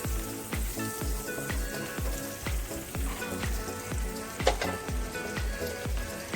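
Oil sizzling in a frying pan, under background music with a steady kick-drum beat of about two beats a second.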